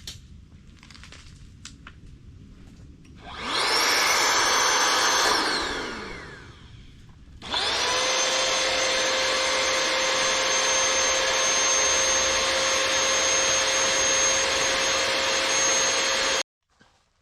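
A small electric motor starts with a rising whine, runs for about two seconds and winds down with a falling whine. It then starts again and runs steadily for about nine seconds before cutting off suddenly.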